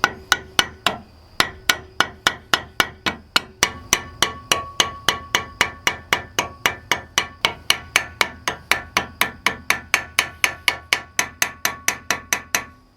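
Cross-peen hammer striking the end of a steel knife tang to peen it over the guard. The blows are quick and even, about four a second, each with a short metallic ring.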